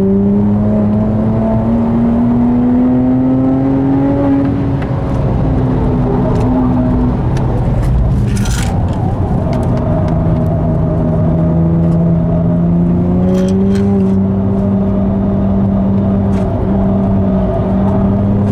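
BMW 1M's twin-turbo 3.0-litre straight-six, tuned by Devotec to 477 hp, heard from inside the cabin on track: the engine note climbs under acceleration over the first few seconds, eases, then climbs again after about ten seconds. A short hiss comes about eight seconds in.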